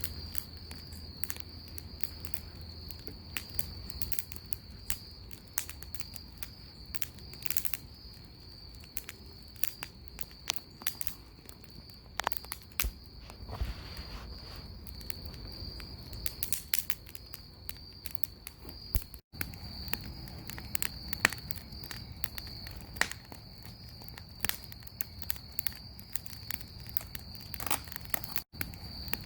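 Bonfire crackling and popping in irregular sharp snaps, with a steady high trill of crickets running behind it.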